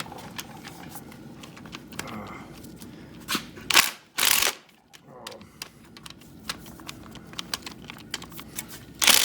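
Short loud bursts from an impact gun trying a stripping engine bolt, with scattered clicks and knocks of socket and tools between them. The bolt head is rounding off and will not come loose.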